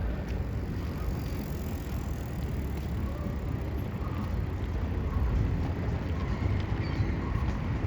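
City street ambience: a steady low rumble of traffic, getting a little louder about five seconds in.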